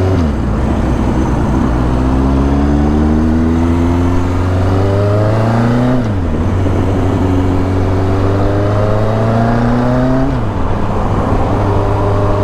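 1983 Suzuki GS 1100E motorcycle's air-cooled inline-four engine accelerating through the gears. The pitch climbs steadily and drops sharply at each upshift: right at the start, about six seconds in, and about ten seconds in.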